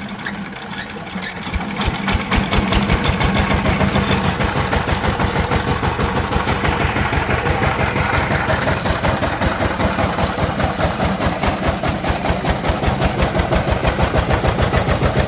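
Power tiller's single-cylinder diesel engine starting: it comes up to speed about two seconds in, then runs steadily with a fast, even chugging.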